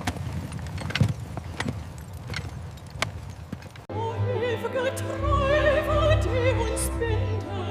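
Horses' hooves clip-clopping at a walk, a knock about every half second, over a noisy rumble. About four seconds in, this cuts abruptly to operatic singing with a wide vibrato over sustained orchestral chords.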